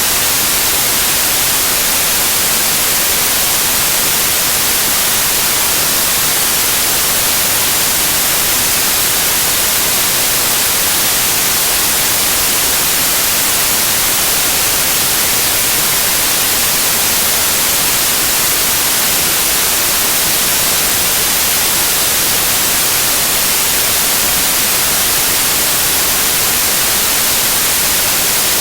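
Loud, steady white noise: an even hiss with the most energy in the high frequencies, unchanging throughout.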